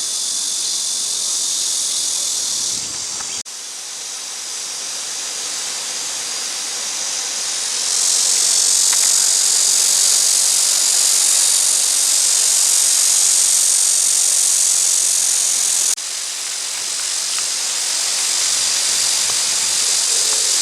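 Steady high-pitched insect chorus, growing louder about eight seconds in and dropping back about sixteen seconds in.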